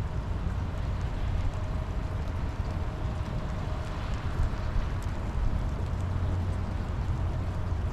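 Steady rainfall, with a deep steady rumble underneath and a few faint drip-like ticks.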